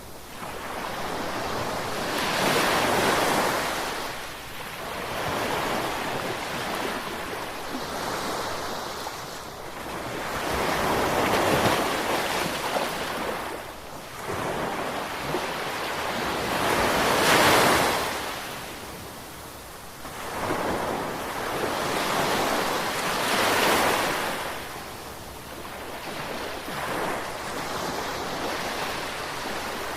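Ocean waves breaking on the shore: a hiss of surf that swells and fades, with the strongest breakers about every six seconds, four in all.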